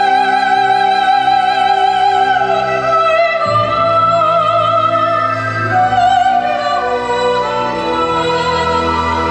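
Operatic singing: a high classical voice holds long notes with wide vibrato, stepping up to a higher held note about halfway through, over a sustained instrumental accompaniment.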